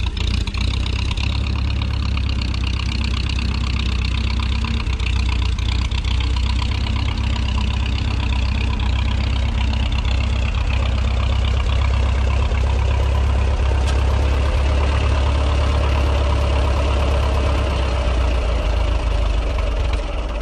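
Old farm tractor's gasoline engine running with a steady low rumble, still cold after a hand-crank start.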